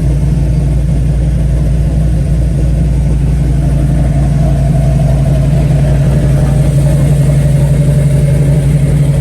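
Car engine running at idle with a loud, steady, deep rumble.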